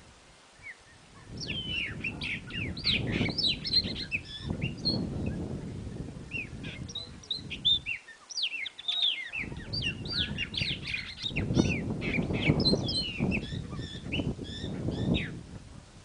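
Bird song: quick jumbled phrases of high chirps and falling whistles, in two stretches split by a short break about halfway. The second stretch is a house wren singing. A low rumble runs under both stretches.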